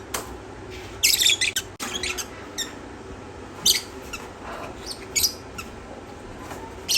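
Parrots giving short, high-pitched squawks and shrieks at irregular intervals, with a loud cluster about a second in.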